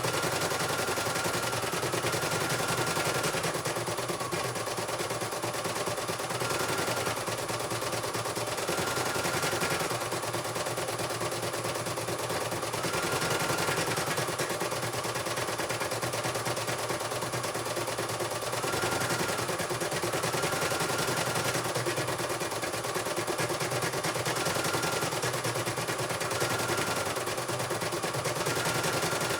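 Computerized embroidery machine stitching steadily: a rapid, even needle clatter, with a short high whine that comes and goes every couple of seconds.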